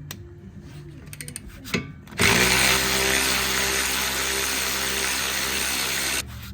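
Power tool spinning a 15mm socket on a rear sway bar bolt of a 2013 Ford Mustang. It starts with a click, runs steadily for about four seconds and cuts off suddenly.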